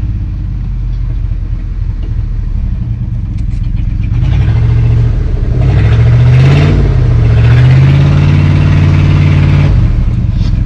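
Chevrolet squarebody pickup's engine running, revving up about four seconds in and held at higher revs, then dropping back near the end, as the truck is driven off under its own power.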